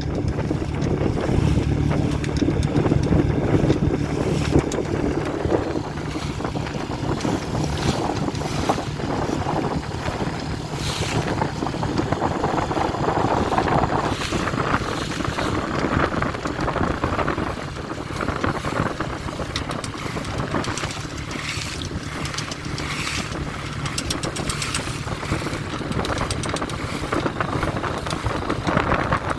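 Tohatsu 3.5 hp outboard motor running steadily at part throttle, pushing a small sailing dinghy into a strong headwind. Gusts of wind rush over the microphone throughout, and the engine note is plainest in the first few seconds.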